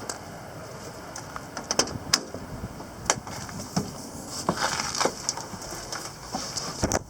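Irregular clicks and knocks over a steady background hiss, with a short rush of noise about four to five seconds in.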